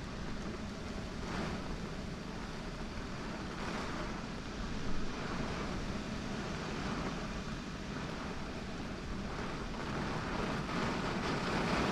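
Wind buffeting the microphone ahead of a thunderstorm: a steady low rumble with gusts swelling into a rushing noise a few times, the strongest near the end.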